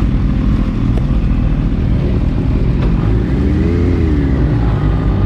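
Motorcycle engine running on the move, its pitch rising and falling once about three and a half seconds in.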